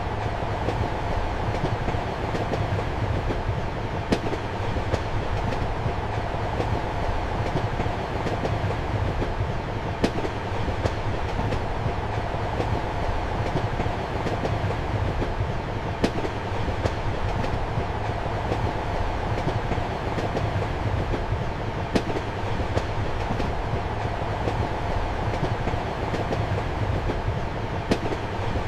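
Passenger train running, heard from inside a compartment: a steady rumble and low hum of the carriage, with a sharp click of the wheels over a rail joint about every six seconds and fainter clicks between.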